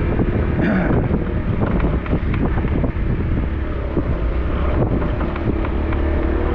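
Small motorbike engine running steadily while riding on wet streets, with wind buffeting the microphone and scattered light ticks.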